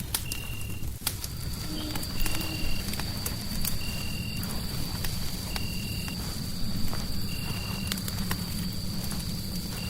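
Fireplace fire crackling, with many sharp pops over a steady low rumble. A short, high, even chirp repeats about every second and a half, and a thin high whine joins about a second in.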